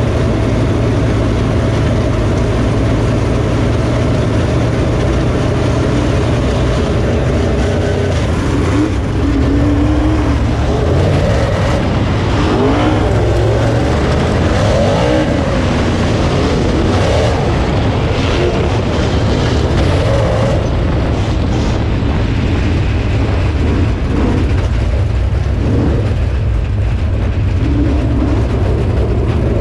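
Dirt late model race car's V8 engine running, heard on board. It holds a steady pitch for about the first eight seconds, then rises and falls in pitch as the throttle changes.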